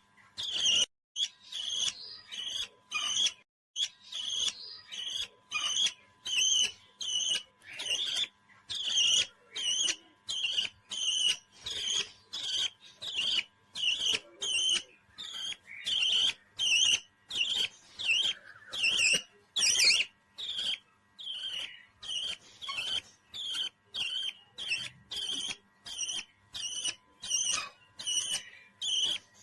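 A parrot giving the same short, high chirping call over and over, about two calls a second in a steady rhythm.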